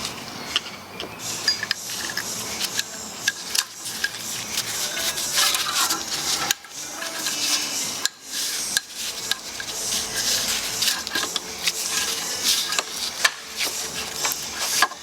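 Metal parts of a hydraulic cylinder clinking, rubbing and scraping as they are handled and reassembled with a new seal, in irregular sharp clicks.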